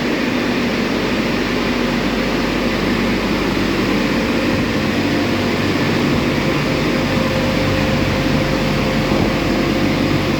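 Drying blowers of an Istobal M12+ rollover car wash running steadily, a loud rushing of air with a low fan hum.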